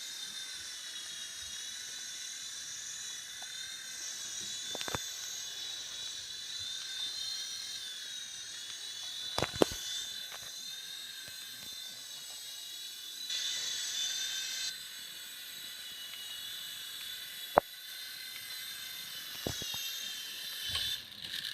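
Cheap M19 toy radio-controlled helicopter in flight, its small electric motor and rotor giving a steady high whine whose pitch wavers slightly. A few sharp knocks cut through it, the loudest about nine and a half and seventeen and a half seconds in.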